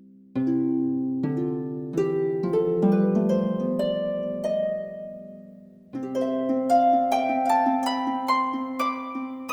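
Background music: a plucked harp playing rising arpeggios, each note ringing on and decaying, with a brief fade about halfway through before the next run begins.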